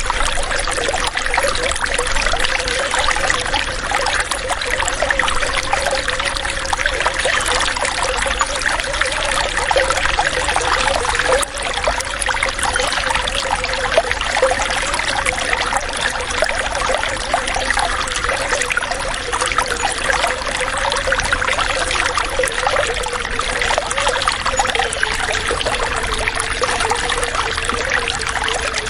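Running water flowing and trickling steadily, with a constant wavering gurgle.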